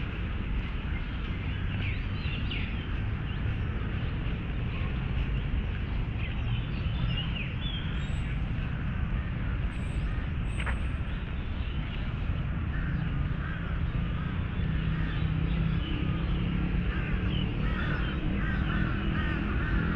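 City-park ambience: a steady low hum of surrounding traffic, with birds chirping and calling over it, and crows cawing toward the end.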